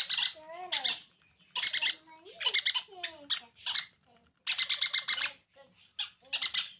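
Sun conure chicks giving raspy, squawking begging calls while being hand-fed. The calls come in about five short bursts with brief pauses between them.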